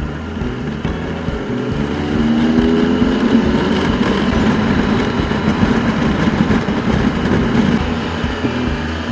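Adventure motorcycle engine running under way, over a heavy rumble of wind and road noise. The engine note rises about two seconds in as the bike accelerates.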